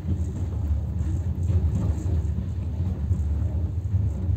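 Moscow–Sukhumi passenger train running, a steady low rumble.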